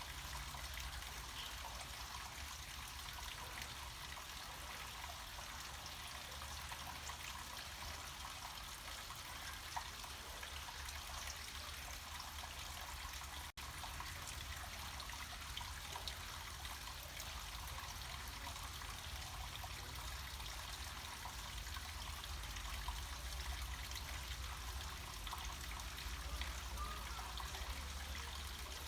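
Water trickling and flowing steadily down a small mountain stream or waterfall, with a brief dropout for an instant about halfway through.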